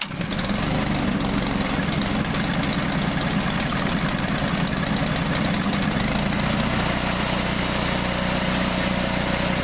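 New replacement gasoline engine on a sawmill catching on a recoil pull with the choke on, then running steadily. Its low hum changes about six seconds in.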